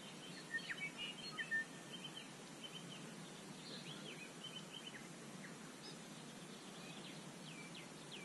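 Birds chirping and calling, with a cluster of louder calls about half a second to a second and a half in, over a steady low background hiss.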